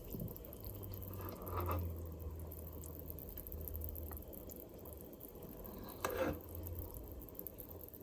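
Faint kitchen sounds while scum is skimmed off a pot of boiling chicken bones for broth: a low steady hum and two short utensil scrapes, about one and a half seconds in and about six seconds in.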